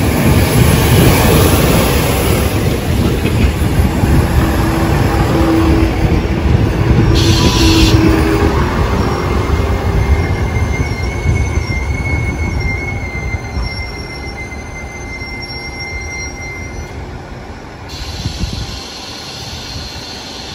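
Korail commuter train pulling into a station close by: a loud rumble of wheels and running gear that fades as it slows, then a thin, steady, high brake squeal for several seconds as it comes to a stop.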